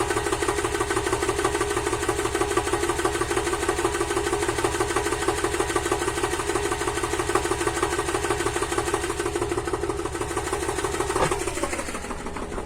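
RS-09 tractor's two-cylinder air-cooled diesel idling steadily after a cold start in frost, its pitch falling about eleven seconds in as the revs drop.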